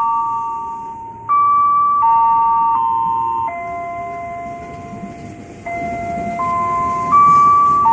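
Railway station public-address chime: a short melody of electronic bell-like notes, each one struck and then fading, over a low rumble of rail noise.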